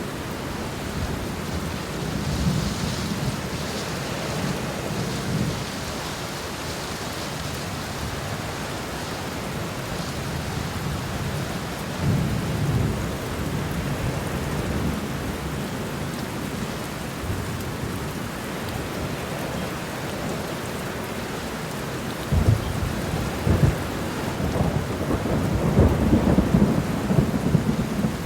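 Steady rain falling, with rolling thunder rumbling low several times; the longest, loudest rumble comes near the end.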